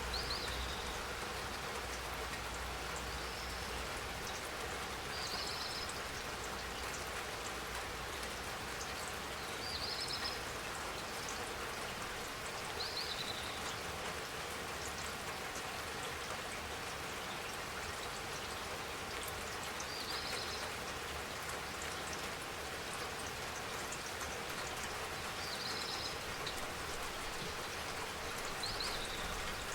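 Steady spring rain falling, an even patter. A short high chirp recurs every few seconds over it.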